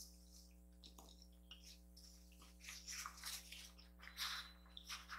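Faint eating sounds: soft, wet chewing and mouth noises from someone eating kimchi noodles, coming in short bunches from about halfway through, over a steady low hum.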